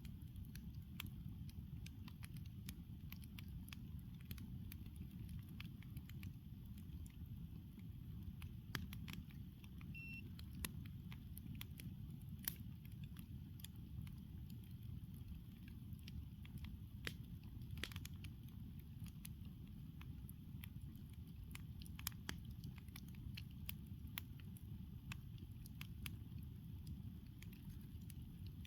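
Campfire crackling: wood burning with frequent irregular pops and snaps, a few sharper ones standing out, over a low steady rumble.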